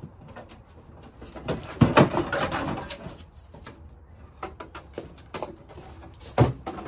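A cluster of knocks and rattles, loudest about two seconds in, then a single sharp knock near the end, from equipment and tools being moved around.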